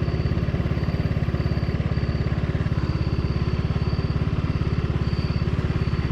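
Truck engine idling steadily, with an even, fast pulse.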